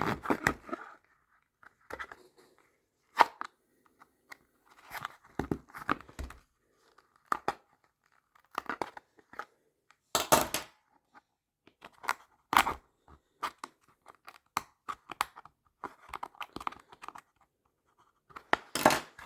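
Hand tools scraping and rasping at a tough plastic case: irregular short strokes with pauses between them, and a few sharp clicks and snaps.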